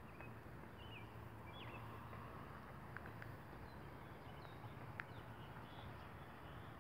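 Quiet outdoor ambience with a few faint, short bird chirps and a low steady hum. There are two small ticks about three seconds in and a sharper click about five seconds in.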